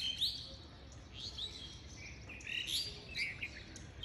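Small birds chirping: many short, high chirps and quick rising notes, scattered irregularly, over a faint low hum.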